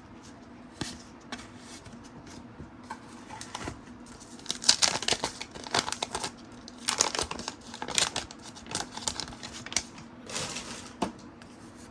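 Cardboard trading cards being slid off a stack and flipped by hand: dry rustling and scraping in quick clusters, with the busiest handling a third of the way in and again past the middle.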